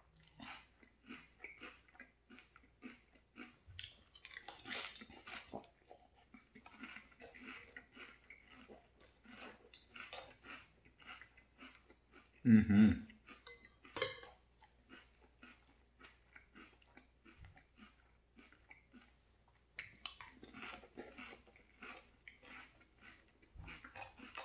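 Crunchy chewing of frosted cornflakes cereal in milk, close to the microphone: a steady run of crisp crunches, about two to three a second. About halfway through comes one louder, short, lower sound.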